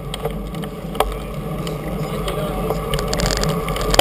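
Steady rushing wind and rolling noise from a bicycle ride, with a couple of sharp clicks or knocks, about a second in and again near the end.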